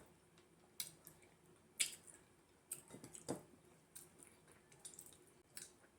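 Soft, wet eating sounds, chewing and lip smacks, as a mouthful of fufu and egusi soup is eaten: short separate clicks about once a second.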